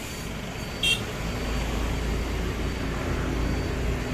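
Low, steady engine rumble that swells about a second in, with one short sharp click just before it.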